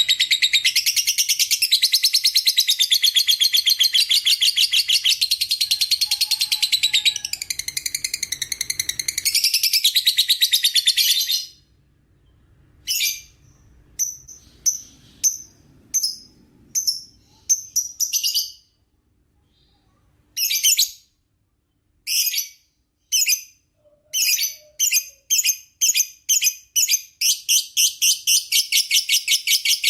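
Lovebird's 'ngekek', a long, rapid chattering trill of shrill notes. It breaks off about a third of the way in into scattered single chirps with pauses. Near the end the notes come faster and faster until it runs into a fast continuous trill again.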